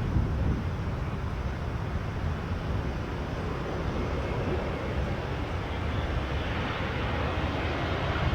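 Airbus A320neo jet engines on landing approach: a steady rumble and hiss that slowly grows louder.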